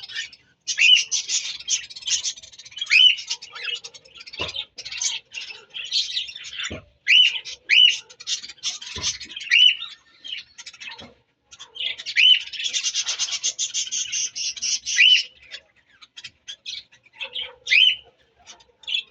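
Budgerigars chattering rapidly, broken by repeated short rising-and-falling contact chirps, with a few knocks in between.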